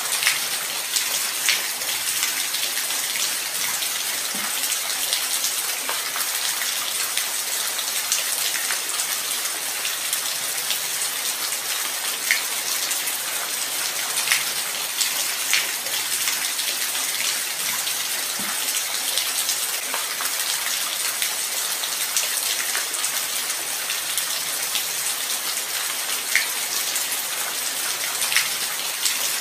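Light rain falling steadily, a constant hiss with scattered individual drops ticking nearby.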